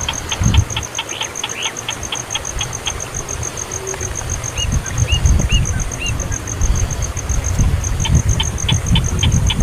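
Baby bird chirping rapidly, about six or seven short high chirps a second, breaking off after about three seconds with a few softer rising chirps, then starting again near the end, as it begs for food. A steady, high pulsing tone and low rumbling noise run underneath.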